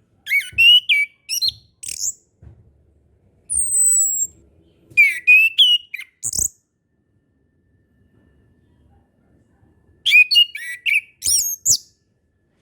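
Chestnut-capped thrush (anis kembang) singing: three short phrases of quick, varied, sharply bending whistles separated by pauses, with a thin high falling whistle between the first two.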